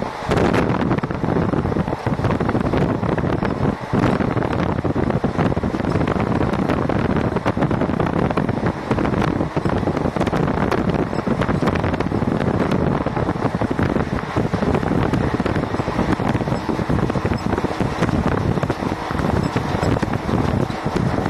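A train running at speed, heard from on board: a steady rumble of wheels on track, with wind buffeting the microphone.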